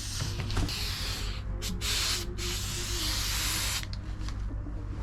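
Aerosol spray-paint can hissing as paint is sprayed through a straw stuck in its broken nozzle, in long bursts with a few short breaks.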